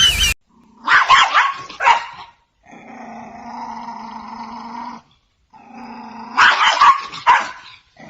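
A dog growling and barking in two short bouts, about a second in and again near the end, with a steady hum in between.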